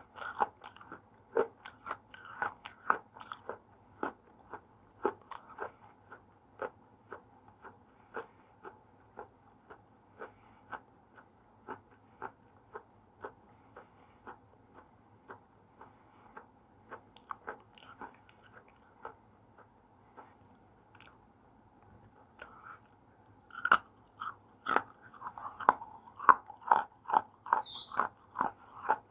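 Slate pencil being chewed, with crisp, regular crunches a little under two a second. They thin out midway and pause briefly, then come back as loud bites and a quick run of crunches near the end.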